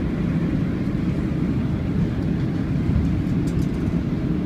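Steady low rumble of an Airbus A330-200 airliner's engines and airflow.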